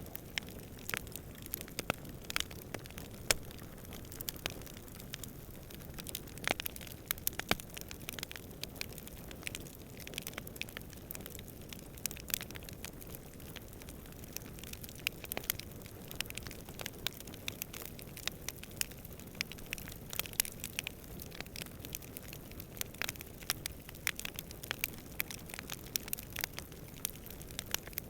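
Wood campfire crackling, with many irregular sharp snaps and pops over a low steady rush of distant wind.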